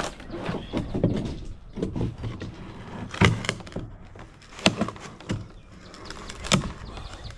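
Irregular knocks, thuds and clatter of wooden deck boards being worked on and handled, with sharper strikes about three, four and a half and six and a half seconds in.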